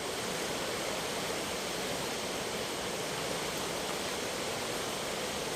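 Fast-flowing floodwater rushing in a steady, unbroken hiss.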